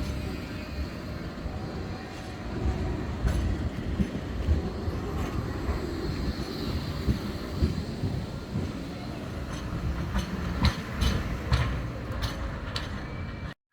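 Bombardier Flexity 2 tram running on the track: a steady low rumble with sharp clicks of the wheels over rail joints, and a brief break in the sound near the end.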